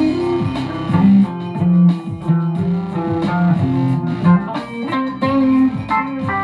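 Guitar music: a run of plucked single notes, some bent or slid in pitch.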